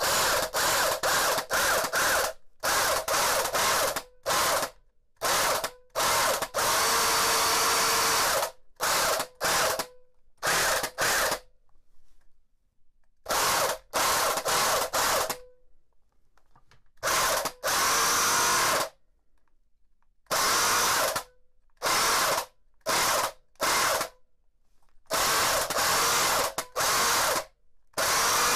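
Vintage AEG BH25 rotary hammer's brushed motor run with no load and switched on and off in quick bursts, most under a second and a few lasting about two seconds, with short silent gaps between them. A brief fading hum follows some of the stops as the motor spins down. The motor is being run to wear a freshly flipped carbon brush back in against the commutator, after the brush had been sparking heavily.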